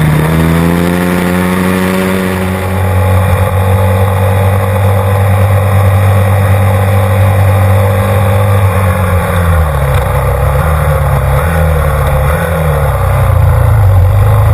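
Pit bike's small single-cylinder engine at full throttle: revs climb in the first seconds and hold high, then about two-thirds of the way in they fall away and rise and dip again several times as the bike slows and picks up through corners.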